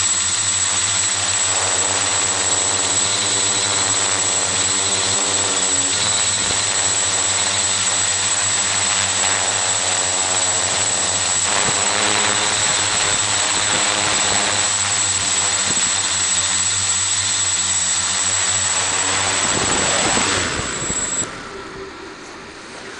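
Xaircraft X650 quadcopter's electric motors and propellers buzzing steadily, heard from a camera mounted on the craft, with a steady high whine over the buzz. Near the end the motor pitch falls and the sound drops away sharply as the motors spool down.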